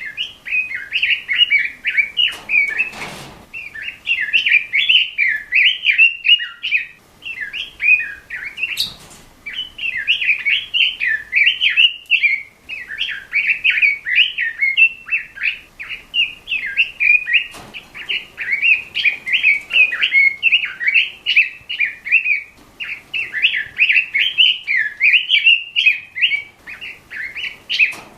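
Pekin robin (red-billed leiothrix) singing a fast, continuous warbling song in quick phrases broken by short pauses, with a few faint clicks.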